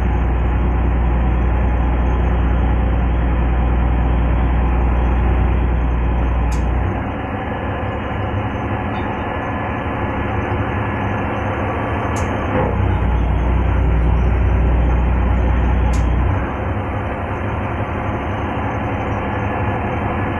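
Mooring boat's engine running with a steady low drone; the deep rumble eases off about seven seconds in, comes back around thirteen seconds and eases again around sixteen, as the engine's load changes.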